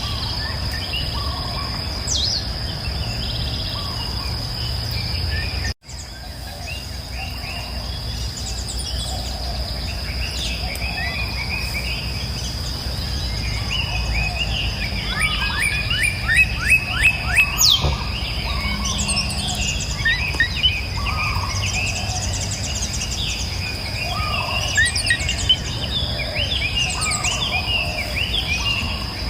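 Several wild birds singing and calling, with a fast run of trilled notes about halfway through, over a steady low rush of flowing river water and a constant high whine. Everything cuts out for a split second about six seconds in.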